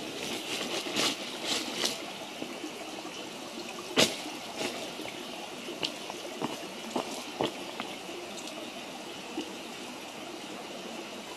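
Wood campfire burning: a steady hiss with irregular crackles and sharp pops, the loudest pop about four seconds in.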